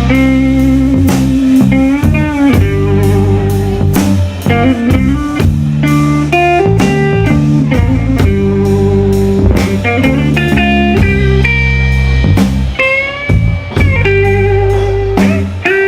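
Blues-rock band playing an instrumental break live: a guitar lead of held notes bent up in pitch over bass and a drum kit keeping a steady beat.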